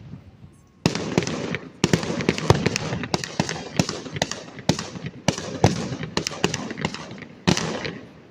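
Fireworks display going off in a dense barrage: many sharp bangs in quick succession with crackling between them, starting about a second in and easing off near the end.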